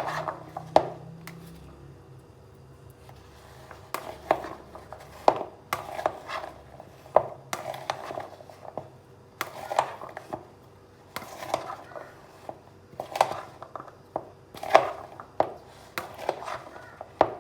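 Kitchen utensil knocks and clinks, irregular, about one a second.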